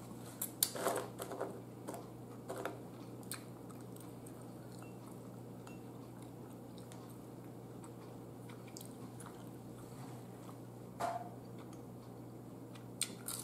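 Faint close-up mouth sounds of a person eating crinkle-cut french fries: a few short chewing and lip smacks in the first few seconds, one about eleven seconds in and more near the end, over a steady low hum.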